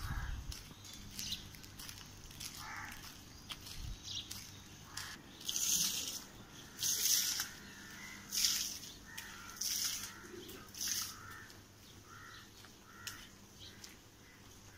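Birds calling: a series of short calls about every second or so, some high and hissy, some lower.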